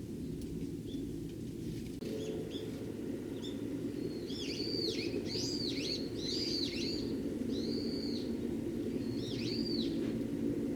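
Eurasian tree sparrows chirping: a few faint short chirps, then a run of about six clear arching chirps a second or so apart, over a steady low hum.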